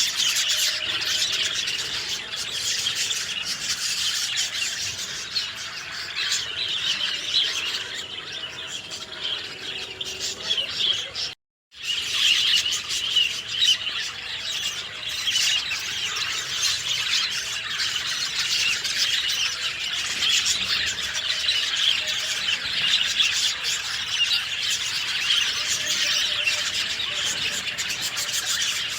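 Dense chorus of many birds chirping and twittering at once. The sound cuts out completely for about half a second near the middle.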